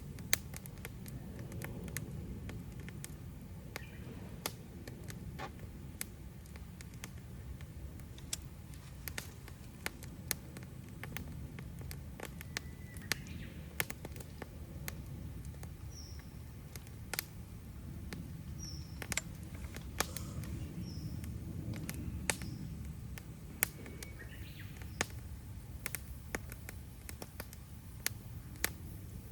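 Wood campfire crackling, with irregular sharp snaps and pops over a low steady rumble. A few short high chirps come in around the middle.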